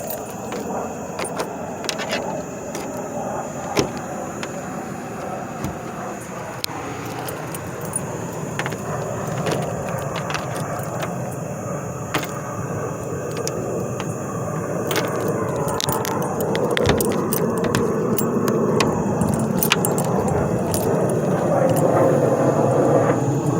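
Keys jangling with many small sharp clicks, over a steady vehicle rumble that slowly grows louder.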